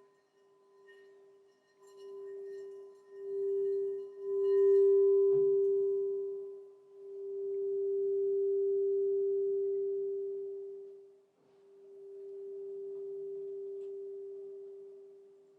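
Crystal singing bowl ringing one steady low tone that swells and fades in several slow waves, with fainter higher overtones in the first few seconds. A light knock comes about five seconds in.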